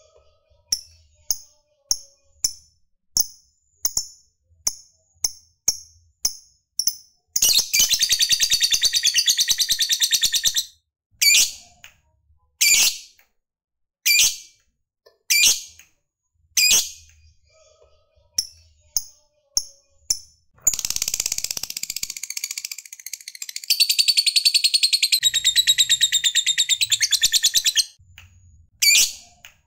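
Lovebird calling: sharp, high single chirps about twice a second, broken by two long, rapid chattering trills (the 'ngekek'). The second trill lasts about seven seconds.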